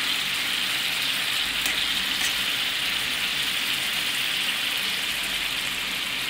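Steak and onion rings sizzling steadily in butter in a frying pan, with a couple of faint pops about two seconds in.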